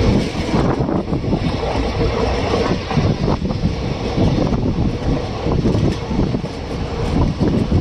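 Maurya Express passenger train running on the rails: a loud, steady rumble of wheels and coaches with irregular rattling, and a faint steady hum through it.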